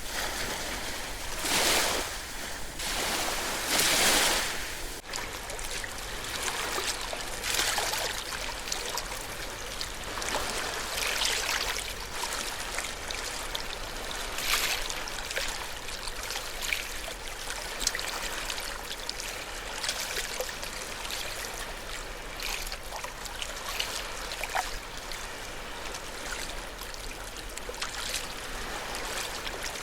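Ocean waves washing on a shore: two louder surges in the first few seconds, then a steady hiss of water with fine crackling and fizzing.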